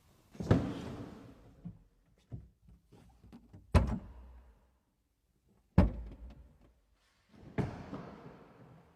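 Four loud, sudden thuds, each dying away over about a second, with near-silent gaps between them.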